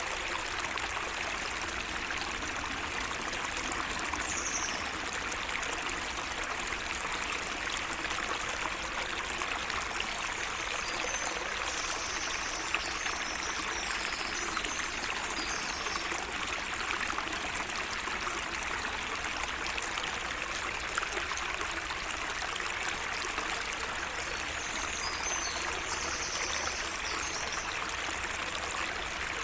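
Water trickling steadily through a small garden waterway, with faint high bird chirps a few times over it.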